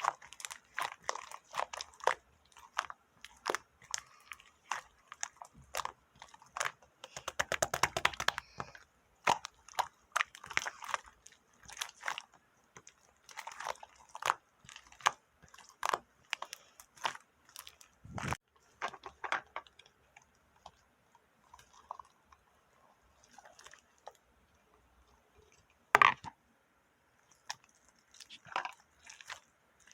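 Crunchy chewing: irregular sharp crunches of something hard being bitten and chewed, with a fast run of crunches about a quarter of the way in and one loud crack late on.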